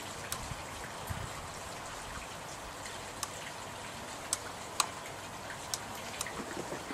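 Faint steady hiss with a few light, irregular clicks.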